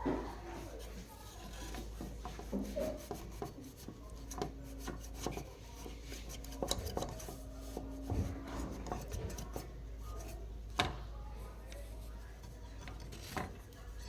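Scattered small clicks, taps and rubbing or scraping sounds of hands and tools handling hard objects, over a steady low hum.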